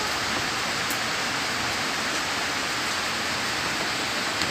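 Heavy rain pouring steadily: a dense, even hiss, with a couple of sharper drop hits.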